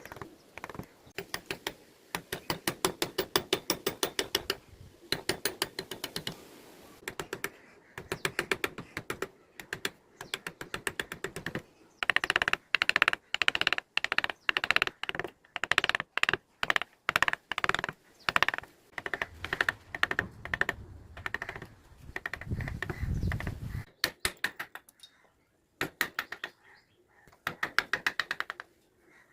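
Rapid light taps of a mallet on a carving chisel cutting into teak, about ten a second in runs with short pauses. A brief low rumble comes about three quarters of the way through.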